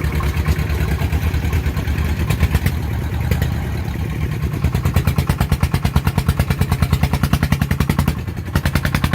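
Farm diesel engine chugging with rapid, even beats, working under load to haul a rice-laden farm truck up a muddy slope; the beats grow louder and harder about four and a half seconds in.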